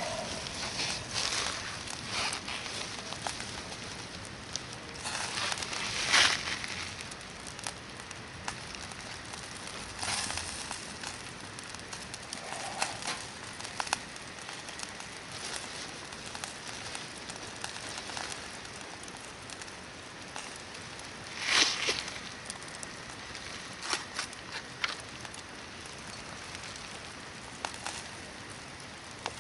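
Hardwood campfire burning with a steady hiss and scattered crackles and pops, with a louder burst of crackling about six seconds in and again about twenty-one seconds in.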